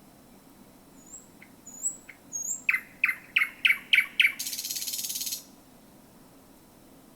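Thrush nightingale singing one song phrase: a few soft, high upslurred whistles, then about six loud, sharp notes in quick succession and a fast dry rattle lasting about a second. The phrase stops a little over five seconds in.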